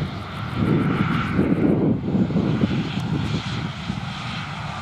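Jet engines of a Blue Air Boeing 737 airliner arriving to land: a steady low rumble that swells and fades slightly, with a faint whine over it.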